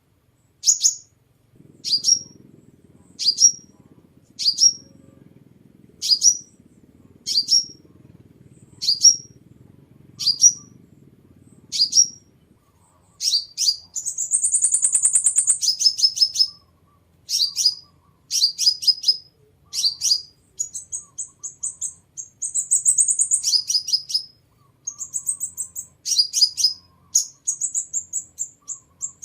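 Sunbird calling: sharp, high chips about one a second, then a longer high trill a little past the middle, followed by quicker runs of chips and short trills.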